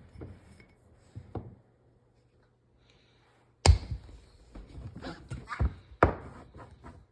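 Kitchen clatter: a few light knocks, then a sharp loud thunk about three and a half seconds in, followed by a run of knocks and thuds of things being handled and set down on a counter.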